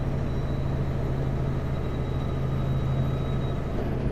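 Kenworth W900L semi truck's diesel engine running steadily at highway cruise with road noise, heard inside the cab: a constant low hum.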